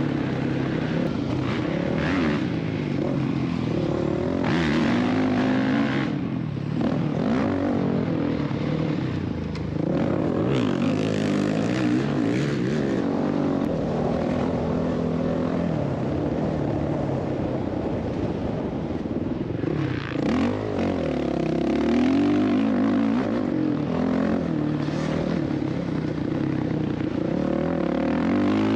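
Dirt bike engine revving up and down as it is ridden round a motocross track, its pitch climbing and dropping every few seconds.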